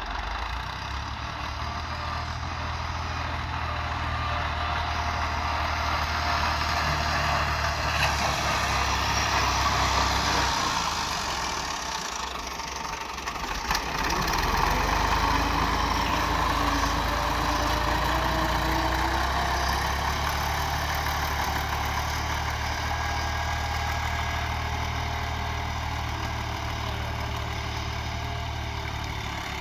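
Fiat 480 tractor's diesel engine running steadily under load. It eases off about eleven seconds in and picks up again a few seconds later.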